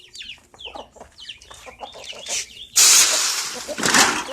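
Chickens clucking and giving short high chirps. About three seconds in, a sudden loud rustling burst lasts most of a second, and a shorter one follows about a second later.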